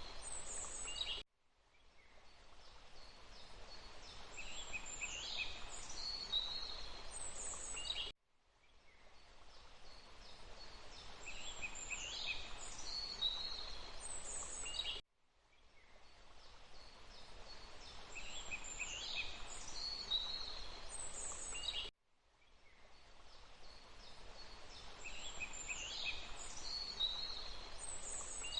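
Birds calling over a steady rushing background: a short forest recording played on a loop. About every seven seconds the sound cuts out abruptly, fades back in, and the same bird calls repeat.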